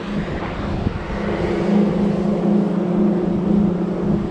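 Steady machinery hum with a slow, even throb, over a rough low rumble of wind on the microphone.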